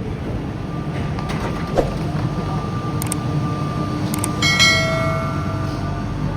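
Changi Airport Skytrain people mover giving off a steady low rumble and hum, with a held whine-like tone above it. About four seconds in, a bright multi-tone chime rings out and fades over about a second.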